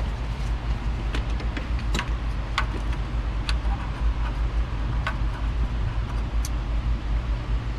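Scattered light clicks and taps from hand work on tools and parts, about six sharp ones spread through the stretch, over a steady low rumble of background noise.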